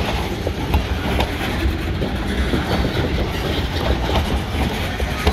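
Freight train's steel gondola cars rolling past: a steady rumble of steel wheels on rail, with irregular clickety-clack as the wheels cross rail joints.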